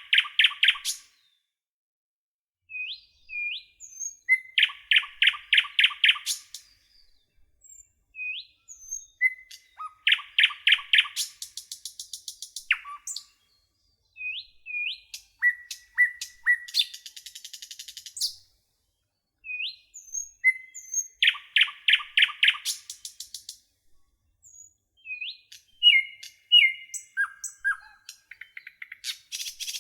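Nightingale singing: a run of separate song phrases a few seconds apart, each opening with a clear whistled note and going into a fast series of repeated notes, with short pauses between.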